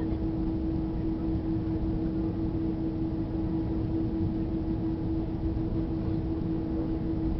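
Steady cabin noise inside an Airbus A330 on the ground after landing: a low rumble under a constant mid-pitched hum.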